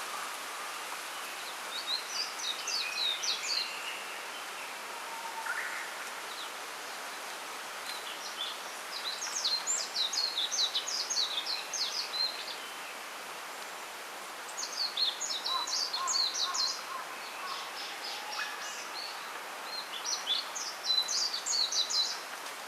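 A small songbird singing four bursts of rapid, high chirping notes. It sings over a steady rustling hiss from the bamboo grove.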